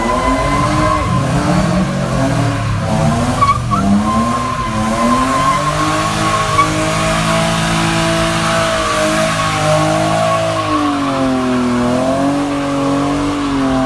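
Car engine held at high revs with tyres squealing in a burnout. The engine pitch wavers at first, then holds steady for several seconds, dips briefly near the end and picks up again.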